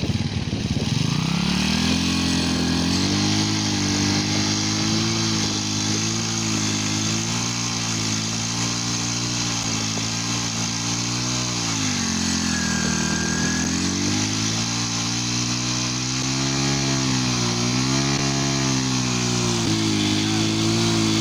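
Engine of a traditional fishing boat running, its pitch wavering up and down and dropping off about twelve seconds in before picking up again.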